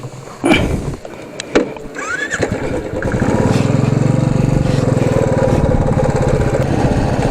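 Motorcycle engine starting: a few knocks and a short rising whine, then about three seconds in the engine catches and runs on steadily with a fast, even pulse.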